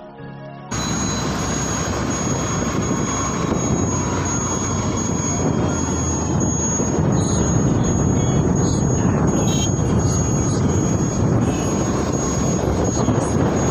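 Background music cuts off under a second in, giving way to the loud, steady rushing noise of travel in a moving vehicle: engine, road and wind noise.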